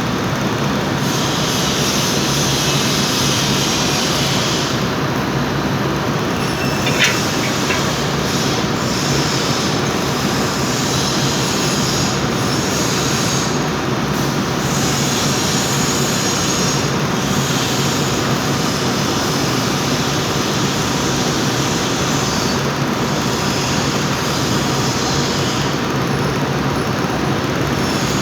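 Loud steady workshop machine noise with a low hum, overlaid by a hissing crackle that starts and stops in runs of a few seconds, typical of welding beads being laid on exhaust pipe. A brief sharp ping comes about seven seconds in.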